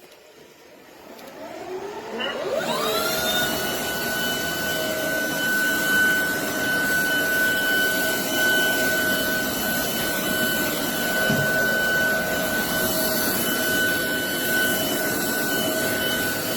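Roborock Dyad Pro cordless wet-and-dry floor vacuum switching on, its motor whine rising in pitch over about two seconds. It then runs steadily with a high whine over a rushing hiss.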